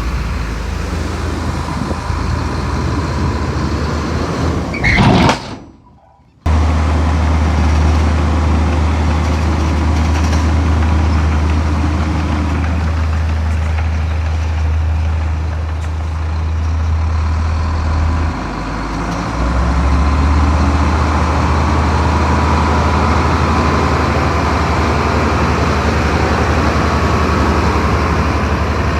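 Heavy diesel engine of an earthmoving machine running steadily with a deep, low drone. About five seconds in there is a brief loud burst, then the sound drops out for about a second before the engine drone resumes.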